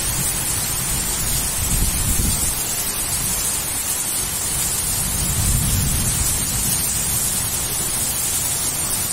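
Heavy rain falling with a steady hiss. Low thunder rumbles under it during the first couple of seconds and again around the middle.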